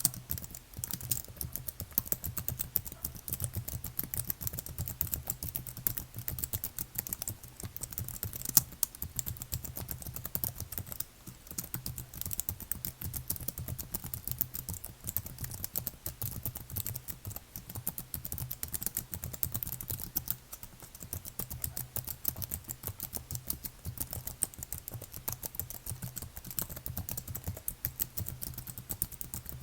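Continuous fast typing on a computer keyboard, a dense run of key clicks with a low thock under each stroke and a brief pause about eleven seconds in.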